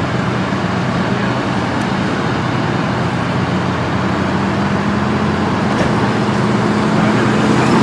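Street traffic noise with a steady engine hum underneath, getting slightly louder near the end.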